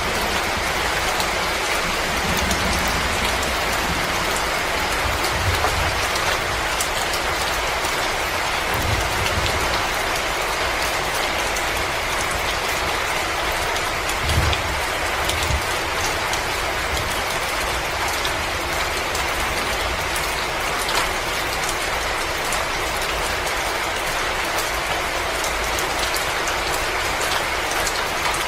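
Wood fire crackling in a fireplace: a steady hiss scattered with many small crackles and pops, with a few soft low thuds, the strongest about halfway through.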